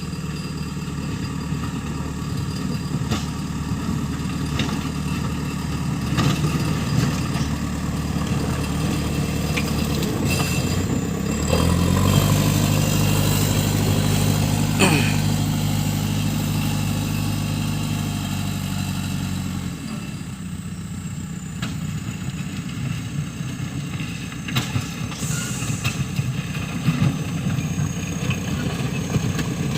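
JCB 3CX backhoe loader's diesel engine running steadily. For about eight seconds in the middle its hum grows louder and more even, then it drops back. A few short knocks are heard.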